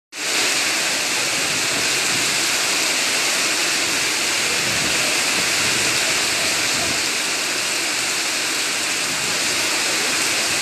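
Heavy rain pouring down onto a cobblestone street: a steady, dense hiss of downpour.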